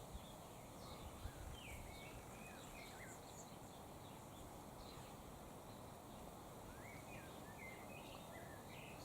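Faint outdoor background with birds chirping: two clusters of short, quick up-and-down notes, one a couple of seconds in and another near the end.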